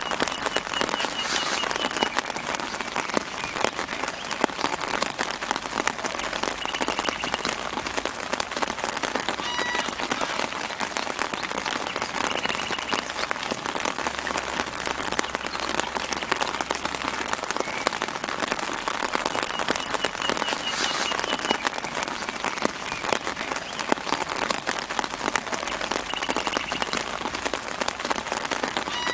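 Steady light rain pattering on leaves and ground, a dense hiss full of small drip ticks. A bird gives a short chirping trill in the background about every five to seven seconds.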